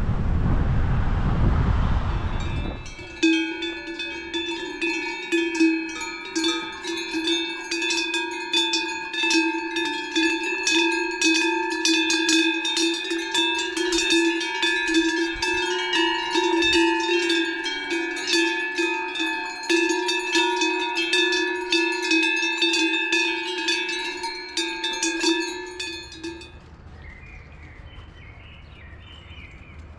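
Many small metal bells jingling and ringing continuously, with sustained ringing tones under rapid strikes; this stops abruptly near the end. Before it, for the first few seconds, wind buffets the microphone.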